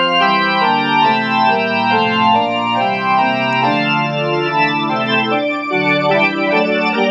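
Organ chords played through a portable Leslie rotary speaker, the spinning speaker giving the sustained notes a fast, fluttering vibrato; the chords change about every second.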